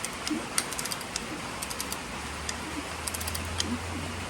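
Short runs of quick, light clicks, typical of a ratchet wrench being worked to turn a V8 engine over by hand during a compression test. A low steady hum comes in about halfway.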